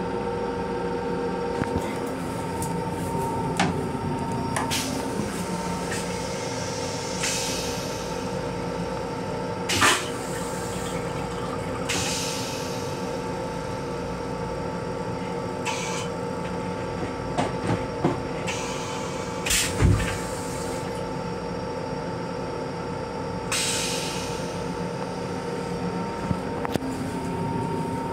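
Metro-North M7 electric railcar running, heard from inside its small restroom: a steady rumble and hum with a couple of held tones. Occasional knocks and rattles and a few short hisses break in.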